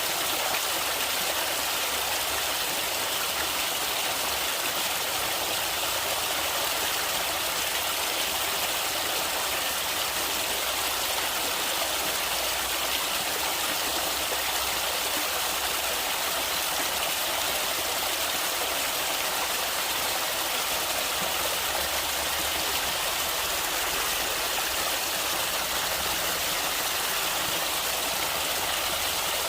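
Stream water flowing and splashing steadily over rocks, an even rushing hiss that does not change.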